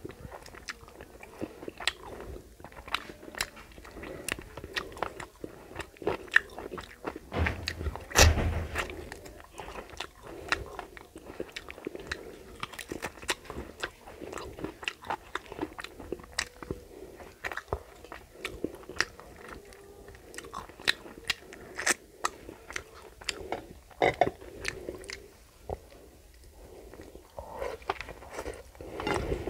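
Close-up chewing and mouth-smacking of a person eating rice and chicken curry by hand, full of quick sharp wet clicks. A louder thump about eight seconds in.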